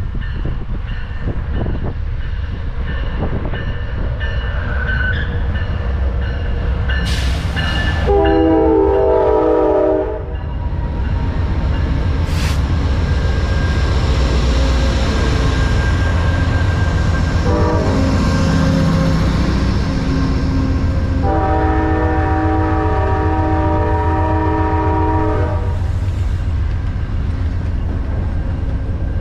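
Amtrak passenger train's diesel locomotive running through with a steady low rumble, sounding its multi-tone horn: a blast about eight seconds in, a short one near eighteen seconds, then a long blast of about four seconds.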